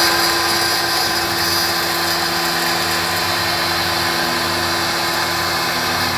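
CNC router's spindle running steadily, a constant machine whine over broad noise.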